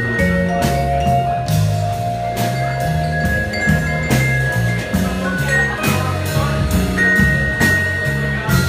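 Live band playing an instrumental passage: a stepping bass line, regular drum hits and long held melody notes over them.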